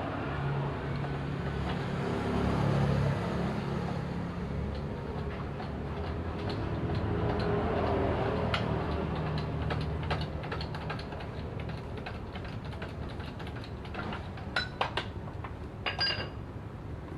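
Irregular sharp clicks and light metallic taps, bunched together near the end, over a steady low rumble: small tools and metal parts being handled during work on an outboard motor.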